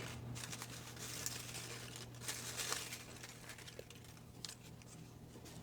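Faint rustling and crinkling of paper slips being handled, with scattered small crackles.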